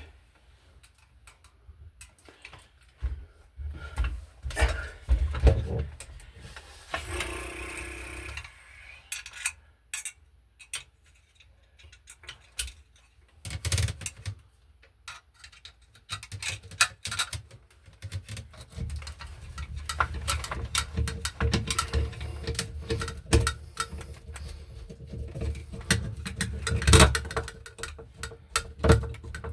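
Irregular clicks, taps and knocks of tools and electrical parts being handled during wiring work, with a steadier low rumble in the second half.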